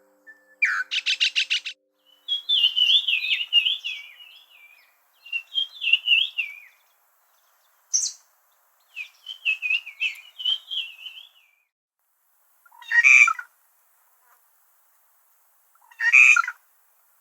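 Wild birds calling: a quick rattling series of notes, then three warbling phrases with wavering pitch, a single short high note, and two harsh squawk-like calls near the end.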